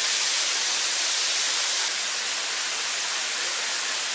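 Waterfall pouring, a steady rushing hiss that dips slightly about halfway through.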